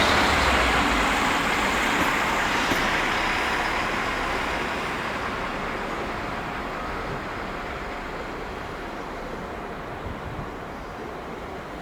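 A train running past on the rails and receding, its rumble fading steadily away.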